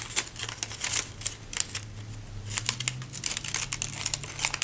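Origami paper crinkling and rustling as a folded sheet is handled and opened out, a dense run of small crackles with a brief lull a little after two seconds.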